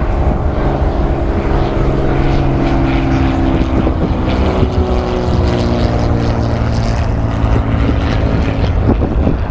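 Propeller airplane engine droning as it flies past, its pitch shifting slightly lower about halfway through, with wind buffeting the microphone.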